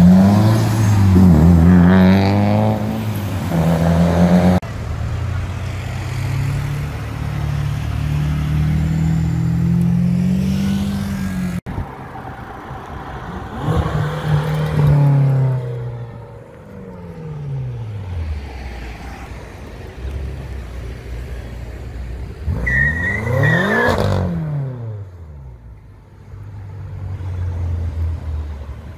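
Several performance cars accelerating hard past in turn, engines revving up and falling away as each one goes by. First a Subaru Impreza WRX STI's turbocharged flat-four pulling away, later a BMW M5 sweeping past, with a brief high squeal during a pass near the end.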